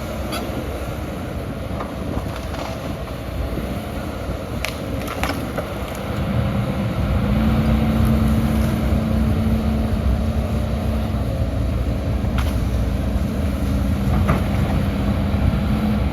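Heavy diesel earthmoving machinery running steadily, getting louder about six seconds in, with a few light knocks.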